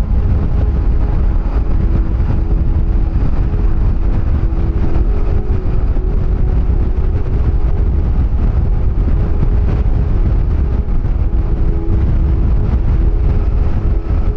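Motorcycle engine running at a steady cruising speed, with heavy wind rumble on the microphone.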